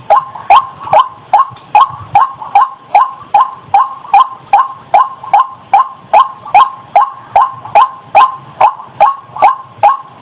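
White-breasted waterhen calling: a steady, rhythmic run of loud, harsh, barking notes, about two and a half per second.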